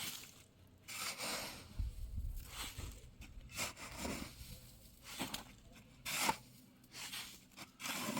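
A series of irregular short scrapes and rubbing noises, roughly one every second, the loudest about six seconds in.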